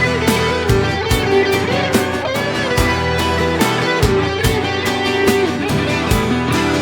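Instrumental passage of a pop-rock ballad: a guitar melody with bends, over a steady drum beat.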